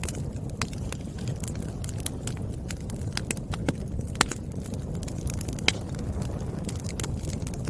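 Wood fire crackling: irregular sharp pops and snaps from burning logs over a steady low rumble of flames, with a couple of louder pops about four and six seconds in.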